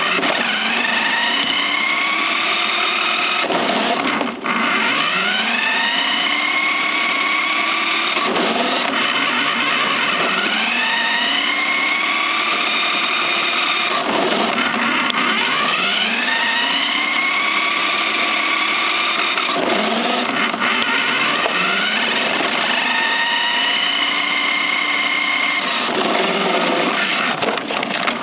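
RC car's motor whining. Its pitch sweeps up and falls back again and again as the car speeds up and slows down, with about five fresh rises.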